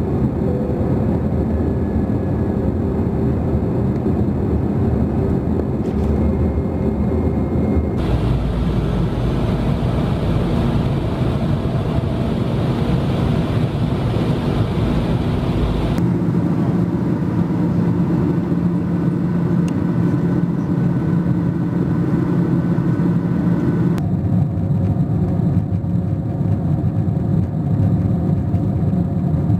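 Airliner cabin noise at a window seat by the wing: the steady rush of engines and airflow with a faint hum of engine tones, changing abruptly about every eight seconds as clips from different flights are cut together, each with its own mix of hum and rush.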